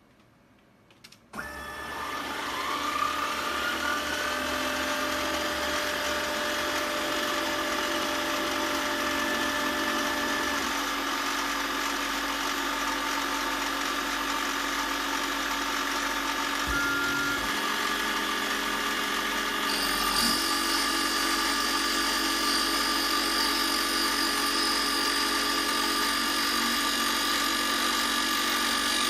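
An electric power tool switched on about a second and a half in, its motor spinning up over a couple of seconds and then running steadily. Its tone shifts about 20 seconds in.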